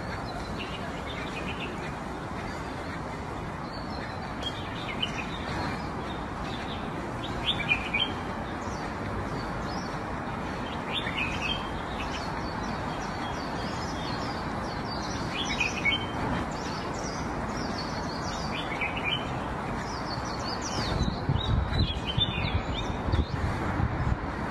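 Small birds chirping in short, scattered calls over a steady background hiss, with a few low rumbling bumps near the end.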